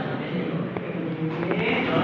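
Low, indistinct voices in the background, with no clear foreground sound.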